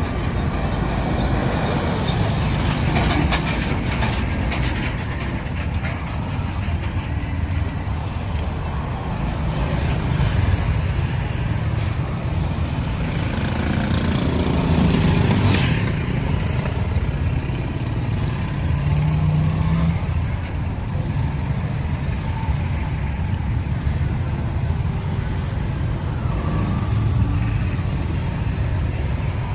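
Steady road traffic noise: engines running and tyres on the road as trucks, cars and motorbikes pass. About halfway through, a louder vehicle passes with a hiss.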